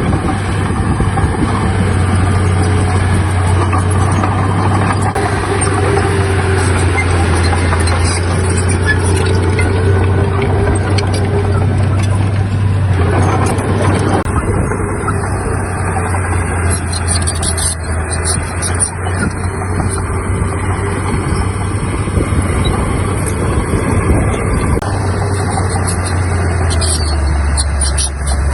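Heavy diesel earthmoving machinery running steadily under load, a low engine hum that drops a little in pitch near the end.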